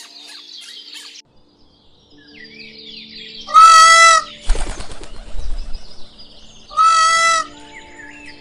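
A large bird gives two loud, harsh calls about three seconds apart, each held at a steady pitch for over half a second. Between them comes a brief noisy flurry with low thumps, like wings flapping, over faint background music.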